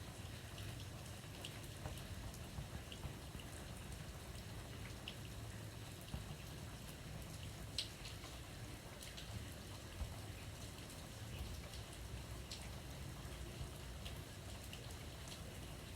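Light rain falling steadily, with scattered individual drops ticking sharply every second or so, over a low steady rumble.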